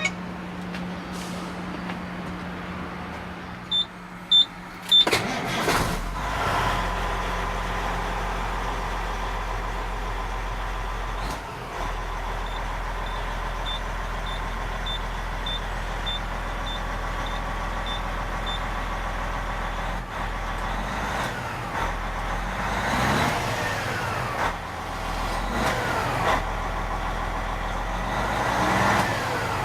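A vehicle engine cranks and catches about six seconds in after a few short beeps, then settles into a steady idle. Faint warning beeps sound at an even pace for several seconds, and near the end the engine is revved up and back down about three times.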